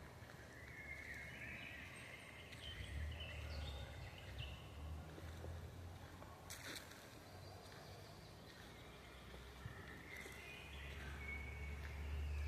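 Birds chirping in short phrases for the first few seconds and again near the end, over a low rumble of wind on the microphone, with one sharp click about halfway through.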